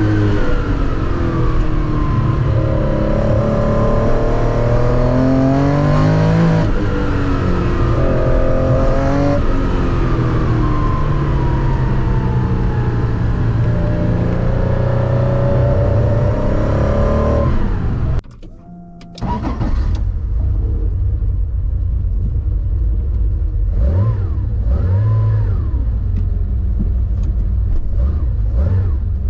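Porsche 914-6 GT tribute's flat-six engine heard from inside the cabin, revving up and falling back again and again as it accelerates through the gears. About two-thirds of the way through the sound cuts out for about a second. It then comes back as a lower, steadier rumble with a couple of short revs.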